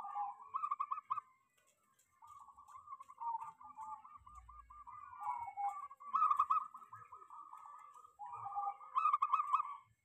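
Birds calling: runs of quick trilling notes in several bursts.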